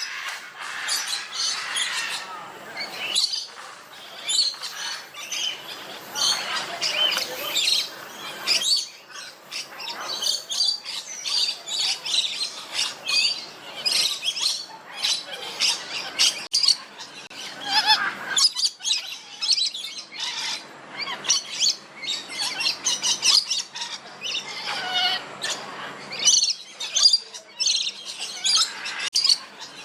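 Many aviary birds chirping and squawking at once, a dense run of short overlapping calls that never stops.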